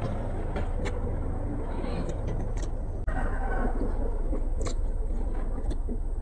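Close-up chewing and mouth sounds of someone eating mock roast pork, with a few sharp clicks, over a steady low rumble.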